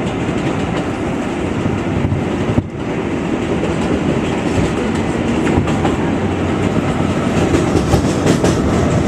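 New York City subway 7 express train running on its line, a steady rumble of wheels on rail with clickety-clack over the rail joints. There is a brief dip a little under three seconds in and a run of sharp clicks near the end.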